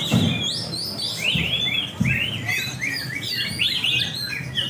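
Several green leafbirds (cucak hijau) singing at once in a songbird contest: dense, overlapping quick chirps and whistled phrases that glide up and down, over low background noise.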